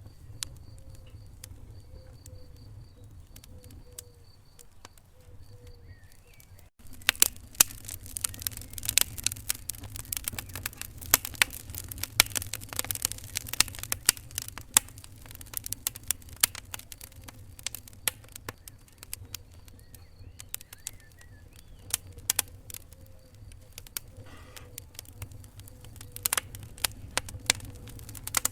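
Wood fire burning in a fireplace: a steady low rumble of flame with sharp crackles and pops from the burning logs. The pops are sparse at first, then about seven seconds in, after a momentary dropout, they come thick and loud.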